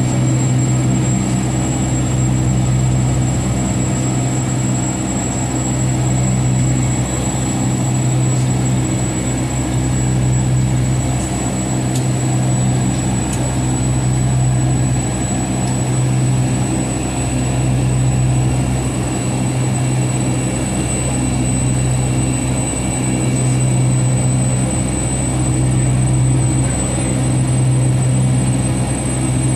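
Steady drone inside the cabin of a Boeing 757-200 on the ground: a strong low hum with a thin high whine held throughout, the level swelling and easing slowly.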